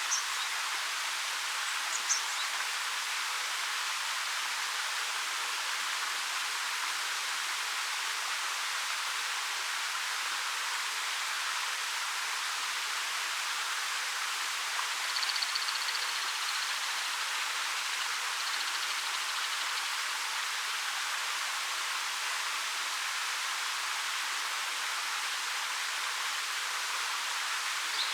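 Ariake Falls, a 13 m waterfall over black rock, pouring with a steady, even rush of water. A few brief high bird calls sound over it: about two seconds in, a short trill around the middle, and again near the end.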